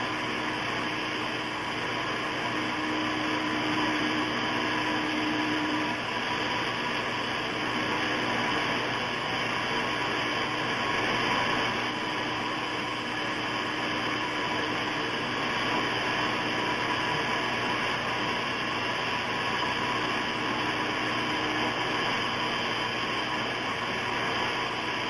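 Electric rotary grinding tool running steadily while filing a parrot's toenails.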